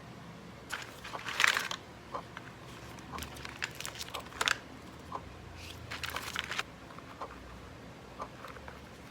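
Packaging being handled: crinkling and rustling in three spells, loudest about a second and a half in, with small taps and clicks in between.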